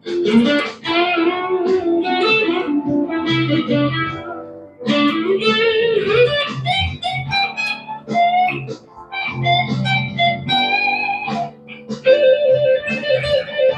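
Harley Benton SC-550 electric guitar being test-played after a repair to its cracked headstock: single-note lead phrases with pitch bends, broken by a few short pauses.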